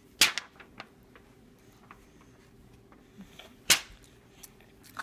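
Two sharp clicks or knocks about three and a half seconds apart, with a few fainter ticks between them.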